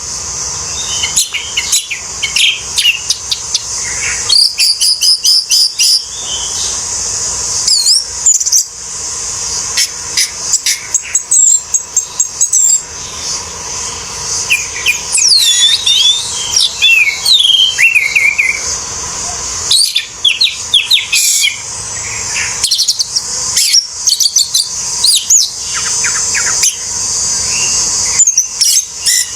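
Orange-headed thrush in full song: a fast, varied run of chirps, whistled sweeps and clicky trills with short breaks, over a steady high hiss.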